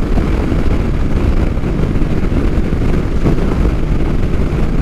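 Motorcycle cruising at highway speed: a steady mix of engine and wind rush with no change.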